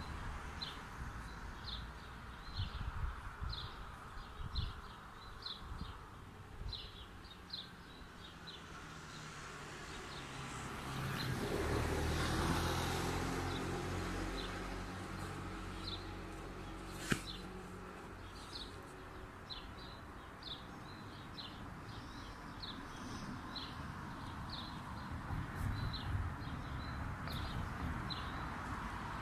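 A small bird chirping over and over in short, high, irregular notes. A car passes in the middle, its rumble swelling and then fading, and there is a single sharp click a little past halfway.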